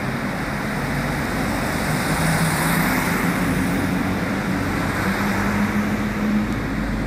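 Diesel passenger train pulling away, its engine note climbing steadily in pitch over a constant rumble.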